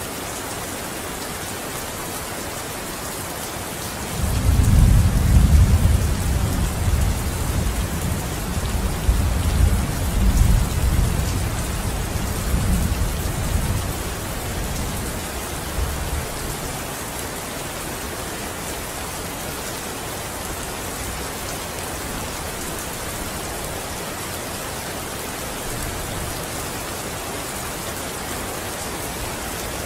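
Steady rain falling, with a long, low rumble of thunder coming in about four seconds in, swelling twice and fading away over about twelve seconds.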